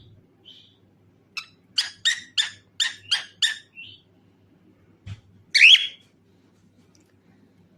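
Cockatiel calling: a quick run of about seven short, sharp chirps, about three a second, then a single louder call about two seconds later.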